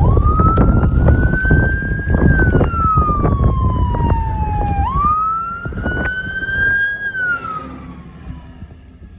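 Emergency vehicle siren wailing in two slow rise-and-fall cycles, fading away near the end. Under it, a heavy low rumble with knocks eases off about halfway through.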